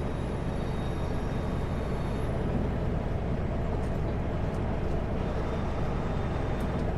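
Kenworth W900L semi truck cruising on the highway, heard from inside the cab: a steady mix of diesel engine drone and tyre and road noise.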